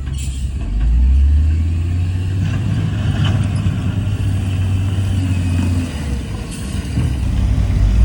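Heavy diesel engine of earthmoving machinery running with a deep, low rumble. It swells about a second in, eases off around six seconds and builds again near the end.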